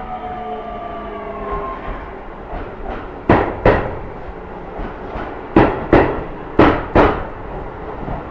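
Keio Line track-inspection train rolling slowly through a station. A fading whine from its running gear comes first, then the wheels knock over rail joints in pairs, each bogie's two axles striking about half a second apart, four times.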